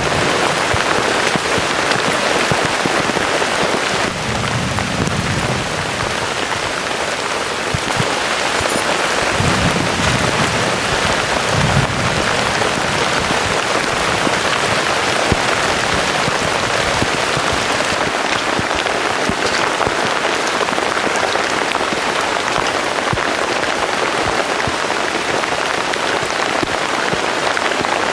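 Heavy rain pouring steadily, with a few low rumbles a few seconds in and again around ten seconds in.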